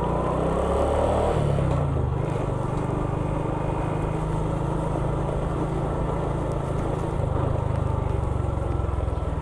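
Motor vehicle engine running steadily with a low hum, over road and wind noise.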